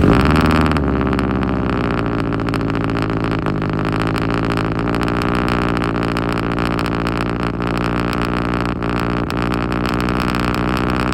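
Turbocharged Subaru Forester XT boxer engine with a loud exhaust catching on a cold start. It flares loudly, drops in pitch over the first second, then settles into a steady high idle.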